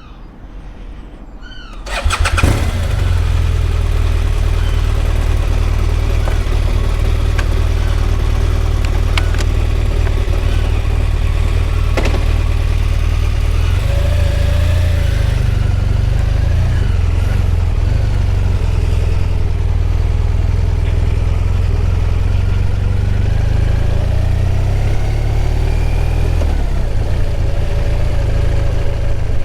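A BMW R1200RT's boxer twin engine is started: a short spell of cranking, then the engine catches about two seconds in and runs steadily.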